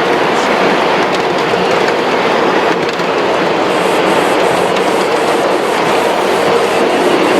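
A train running on its track with a steady rolling rumble. About halfway through, a regular clickety-clack of wheels over rail joints comes in, about three beats a second.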